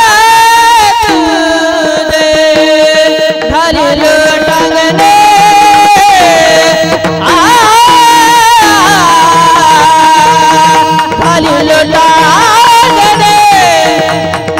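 Marathi devotional abhang singing: long, ornamented held notes that bend between pitches, over a steady drone.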